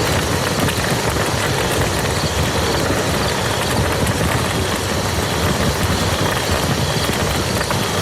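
Steady heavy rain falling on muddy ground, a dense even hiss of drops with a low rumble underneath.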